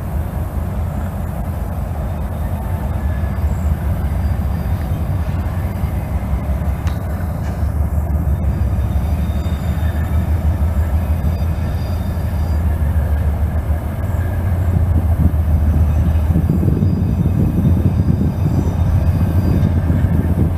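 A train rolling past: a steady, continuous low rumble of wheels and cars on the rails, growing a little louder near the end.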